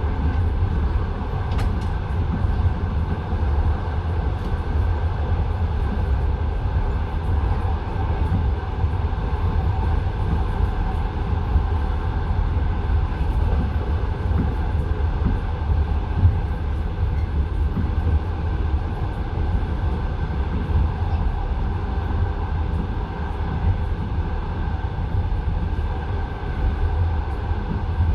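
Passenger train running on the line, heard from inside the carriage: a steady rumble of wheels on the rails, with the odd faint knock from the wheels.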